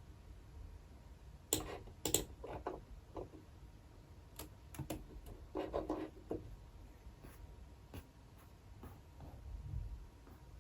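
Quiet clicking and tapping from work at a desk, in a few short bursts of rapid clicks with pauses between them and a few single clicks later on.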